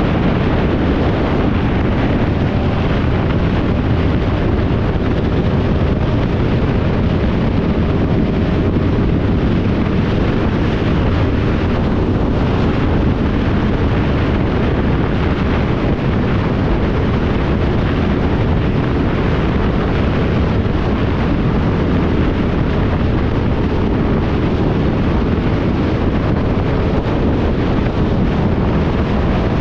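A motorcycle under way: steady wind rush on the microphone over the engine's running drone, with no change in the noise.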